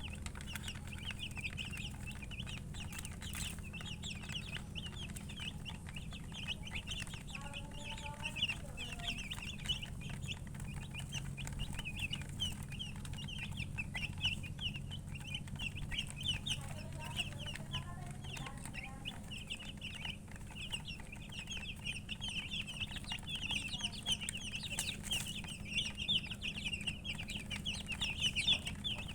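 Many baby chicks peeping at once, a continuous stream of short, high chirps, over a steady low hum. A few lower calls come in about eight seconds in and again around seventeen seconds.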